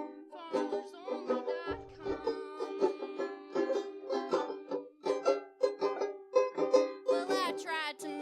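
Live country-style band playing an instrumental passage, led by rhythmically plucked string instruments, with a wavering melodic line coming in near the end.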